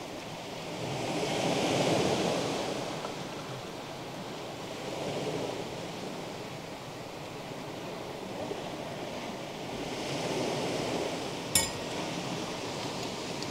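Sea waves washing onto the shore of a cove, the noise swelling and easing every few seconds. A single sharp click sounds near the end.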